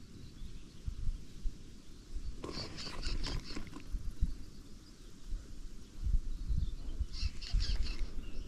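A small songbird chirping in two short rapid series, one about two and a half seconds in and one about seven seconds in, over a low rumble with occasional knocks.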